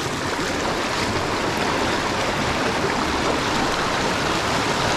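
Mountain headwater stream rushing steadily over rocks.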